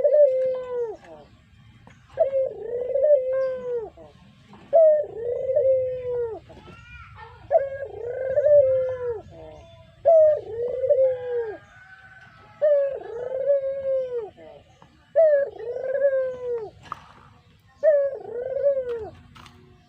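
Brown puter dove (domestic Barbary dove) cooing. It repeats the same short arching coo phrase eight times, about every two and a half seconds.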